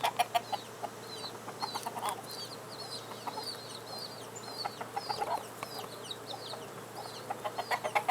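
A hen clucking in several quick runs while her chicks peep steadily, high-pitched, throughout.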